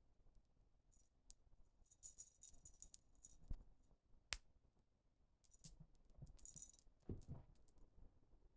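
A dangling cat toy rattles in two bursts, about two seconds in and again about six seconds in, as a kitten bats, grabs and kicks it. There are soft thumps from the kitten and one sharp tap near the middle.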